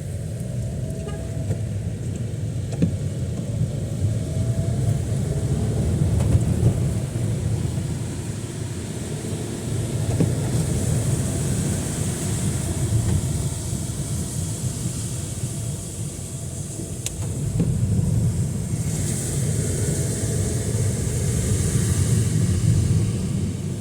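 Road traffic in heavy rain: a steady low rumble of vehicles, with tyres hissing through water on the wet road twice as cars go by.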